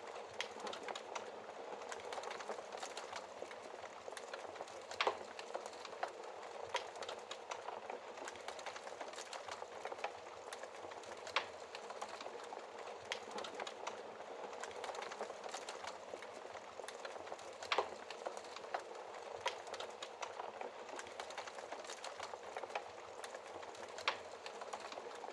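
Wood fire burning in a fireplace: a steady crackling hiss with many small pops and a few louder snaps.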